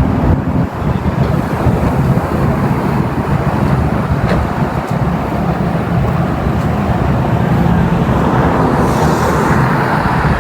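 Steady vehicle road noise: a continuous low rumble of engine and tyres.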